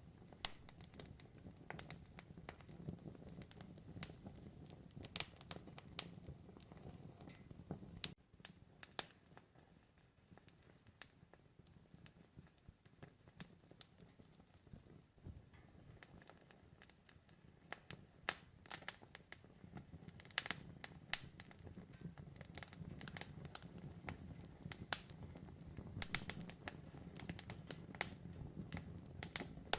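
Campfire crackling: sharp, irregular pops and snaps over a low, steady rumble of the burning fire. The pops and rumble ease off about eight seconds in and build back up from about sixteen seconds.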